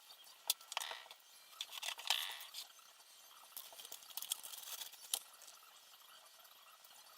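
Small hard parts and tools being handled during a multicopter assembly: scattered light clicks and small metallic clinks, with a brief rustle about one and two seconds in.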